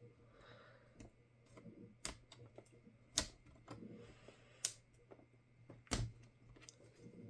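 Scattered sharp clicks and taps from tools and plastic parts while the HP 15s laptop is taken apart, four of them louder and roughly a second or so apart, over a faint steady low hum.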